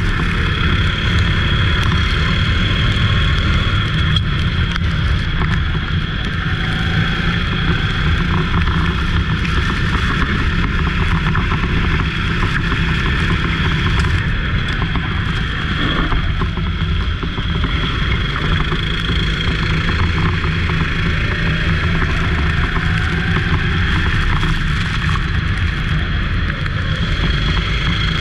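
Go-kart engine running at race speed, loud and steady, with a deep rumble under a thin high whine.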